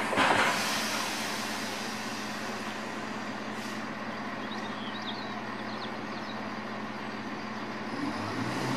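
Freight train of EWS bogie hopper wagons rolling away: a last clatter of wheels at the very start, then a steady rumble and low hum from the receding train. Near the end an engine note rises and grows louder.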